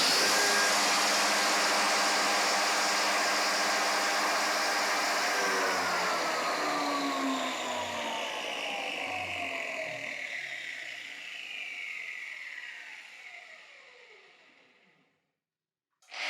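Hitachi G18Y1 angle grinder's electric motor running at full speed without load. About five seconds in it is switched off, and its whine falls steadily in pitch as it coasts down to a stop over about ten seconds. Near the end it is switched on again and spins up.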